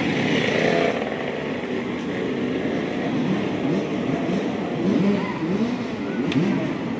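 Several 85cc two-stroke motocross bike engines racing, their pitch climbing in repeated rising sweeps as the throttles are worked through the gears.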